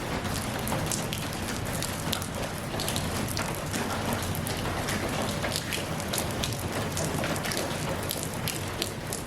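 Steady rain falling, with many separate drops ticking sharply on a surface over an even hiss.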